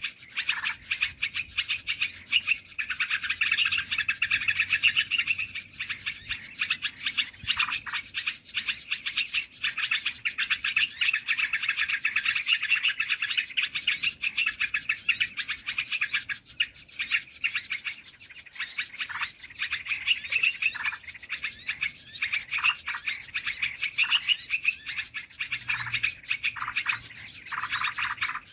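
Dense, unbroken chattering of many small birds, rapid chirps and twitters overlapping without pause: a bird-trapping lure call (suara pikat) used to draw in bulbuls.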